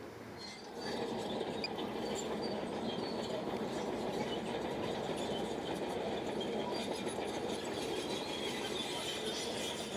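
Bulldozer running and moving on its crawler tracks: a steady clatter with a high, thin squeal from the tracks. It grows louder about a second in.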